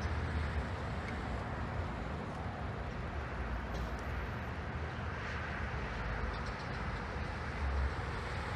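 Steady low rumble of an approaching diesel train heard far off, mixed with road traffic.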